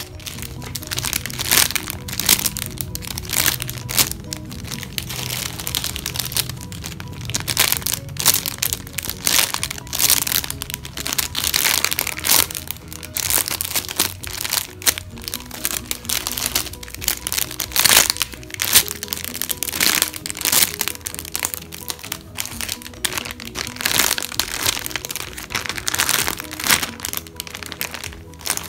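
Background music with steady, irregular crinkling and crackling of plastic as packaged squishy toys are handled.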